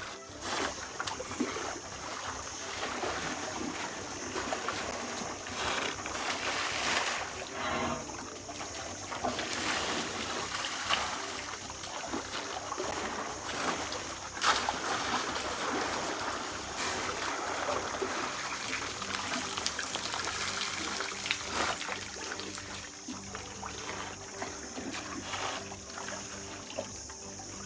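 Elephants drinking at a waterhole close to the hide, with water splashing and trickling unevenly. A steady high hiss runs underneath.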